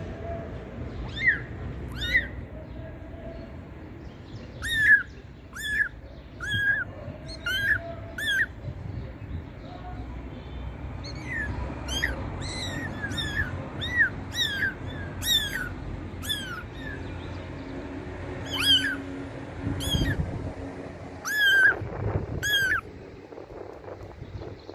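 Kittens mewing over and over: short, high-pitched mews coming one after another, sometimes in quick runs, over a steady low rumble.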